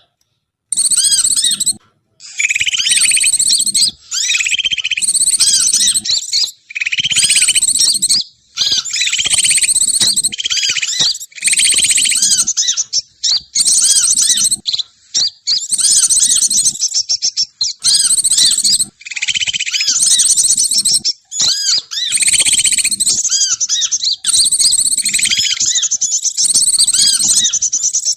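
Bird-lure recording of many bird calls: loud, dense chirping and chattering in bursts of a second or two, broken by short pauses.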